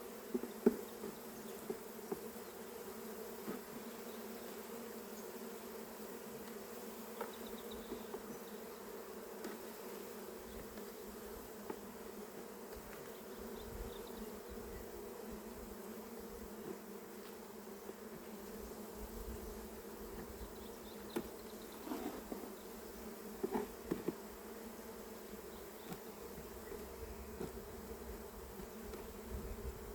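Honeybee colony buzzing steadily in an opened hive, with a few light knocks.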